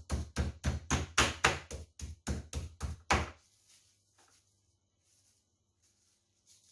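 Chicken fillets being pounded flat through plastic wrap: a fast, even run of heavy blows, about four a second, that stops about three seconds in, leaving only a few faint taps.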